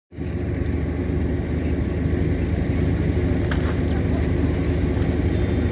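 A steady low mechanical drone, like a running engine, holding at an even level with no fireworks bangs.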